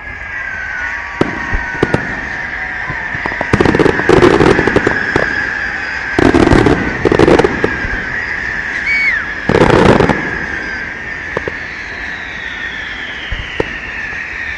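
Sound-effect sequence of a steady high whistle with loud noisy hits laid over it: four hits, each lasting up to about a second, the last near ten seconds in. A short whistle glide drops in pitch just before the last hit, and falling whistles follow near the end.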